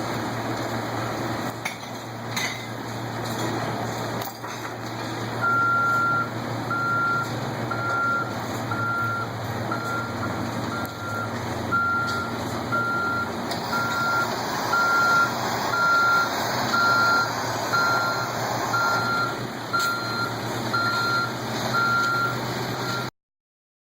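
Truck engine running steadily. From about five seconds in, its reverse alarm beeps about once a second, with a second, higher beep joining about halfway through.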